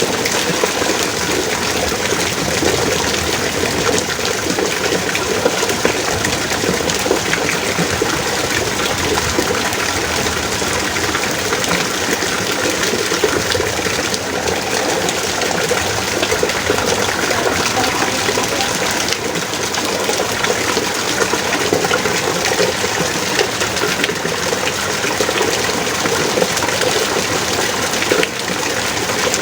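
Heavy rain pouring steadily, a dense even hiss of water with no let-up.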